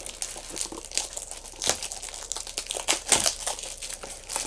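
Plastic wrapping on a Funko Mystery Minis box crinkling and tearing as it is pulled off, an irregular crackle with louder snaps about a second and a half in and again about three seconds in.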